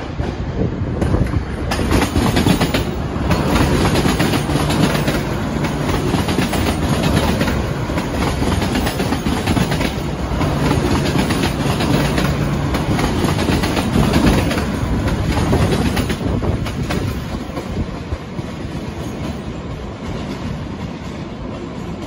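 Passenger train running along the tracks, its wheels clacking over the rail joints. It grows louder about two seconds in, stays loud through the middle, then eases off near the end.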